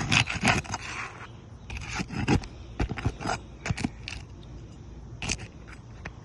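Roof shingles being pried and scraped loose from their nails: a quick run of scrapes and clicks in the first second, then scattered single scrapes and snaps.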